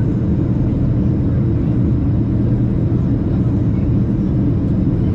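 Steady low rumble of a Boeing 737-700's cabin in flight: airflow and CFM56 engine noise, loud and even throughout, as heard from a window seat during the approach.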